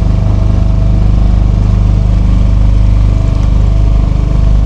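Motor of a small leisure hire boat running steadily with an even, deep hum.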